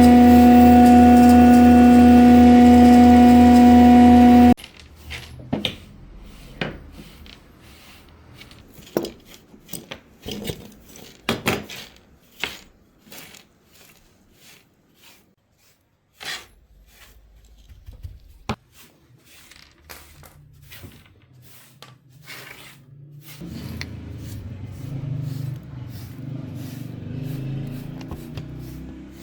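A power tool's motor running with a steady whine, cutting off suddenly about four and a half seconds in, followed by scattered light knocks and taps of handwork on wood, and a low rumble near the end.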